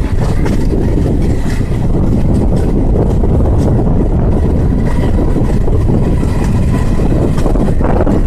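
Passenger train in motion: a steady, loud rumble of wheels on the track with wind buffeting the microphone and a few faint clicks.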